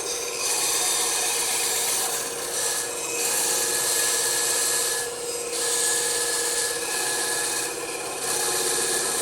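Bandsaw blade cutting through wood: a steady hiss over the saw's hum, easing off briefly three times as the cut is fed.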